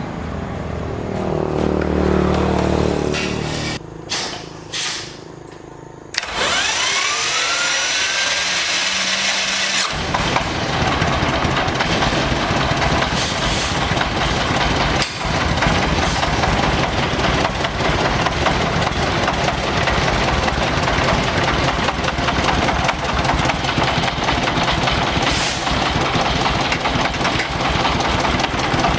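Old tractor engine spinning up with a rising whine and then catching, running steadily with a fast even beat from about ten seconds in. A machine winds down in the first few seconds.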